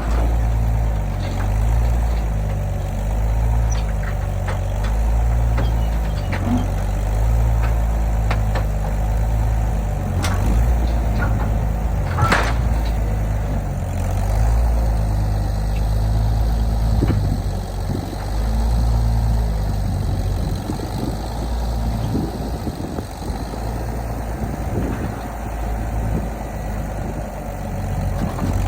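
Engine running steadily with a low rumble, with a few sharp knocks over it, the loudest about twelve seconds in; the rumble turns rougher and less even in the last third.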